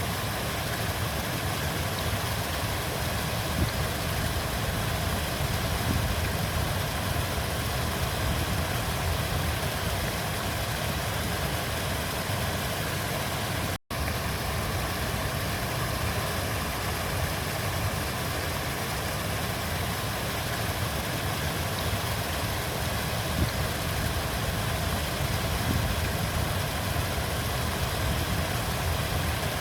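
River water flowing with a steady, low rushing sound. It cuts out for an instant about fourteen seconds in.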